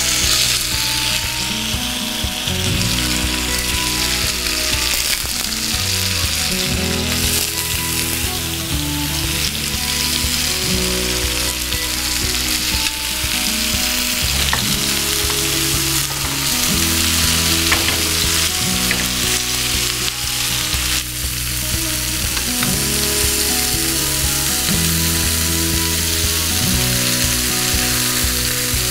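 Yogurt-marinated fish tikka skewers sizzling steadily on a hot oiled grill pan, over background music.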